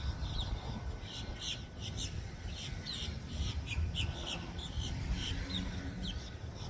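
Birds chirping, many short quick calls several times a second, over a steady low rumble.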